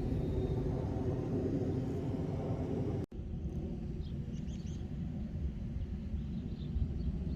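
Steady low outdoor rumble, broken by a sudden cut about three seconds in, then resuming with small birds chirping over it.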